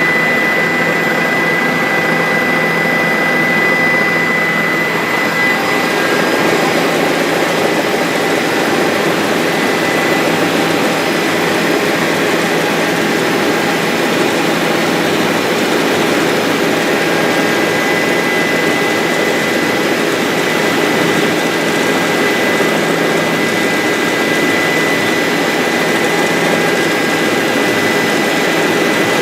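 Bell 407 helicopter in steady flight, its single turboshaft engine and rotors making a loud, even drone with a thin high whine held steady throughout.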